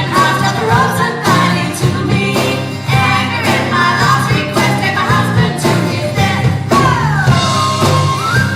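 A live band playing a song: a steady bass and beat under a melody line that slides in pitch, with a long downward slide about seven seconds in that settles into a held note.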